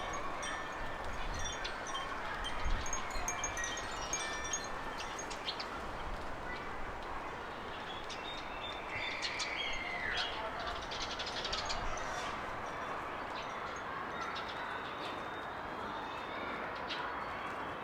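Small garden birds chirping and calling, with one drawn-out falling whistle about nine seconds in, over a steady hiss of background noise.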